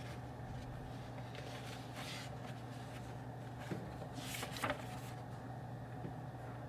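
Steady low hum of office room ambience, with faint brief rustles about two seconds in and again about four and a half seconds in, the second ending in a small click.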